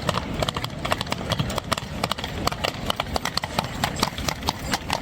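Shod horse hooves clip-clopping on wet cobblestones, a quick, uneven run of sharp knocks, as of a horse-drawn carriage going by.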